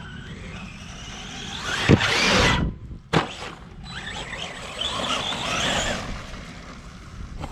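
Electric RC truck running hard, its motor whining and rising in pitch as it speeds up, with a sharp knock about two seconds in and another about a second later. The motor whines again in the middle of the stretch.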